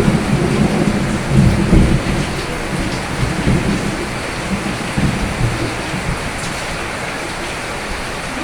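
Steady rain with a low rumble of thunder over the first few seconds that then dies away.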